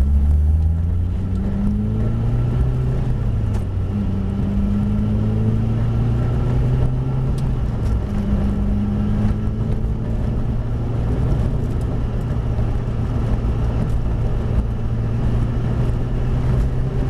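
Mitsubishi Lancer Evolution VIII rally car's turbocharged four-cylinder engine pulling up through the gears. The pitch climbs, drops back at each shift for about the first ten seconds, then holds fairly steady.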